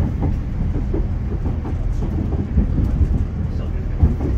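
Great Western Railway passenger train running along the track, heard from inside the carriage: a steady low rumble with irregular clacks from the wheels over the rails, the sharpest about two and a half and four seconds in.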